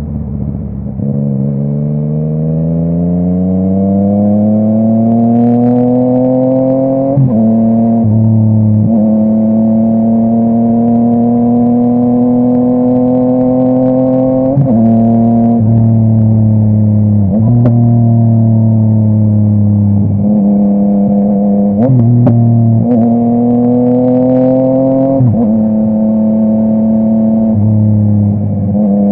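Yamaha MT-09's three-cylinder engine through a full Akrapovic exhaust, under way: the engine note climbs steadily for several seconds under acceleration, then drops and levels off at each gear change or throttle lift, several times over.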